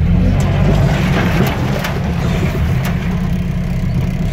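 A 4x4 off-roader's engine running under load, heard from inside the cab as the vehicle crawls through snow: a steady low drone with a few light clicks and knocks over it.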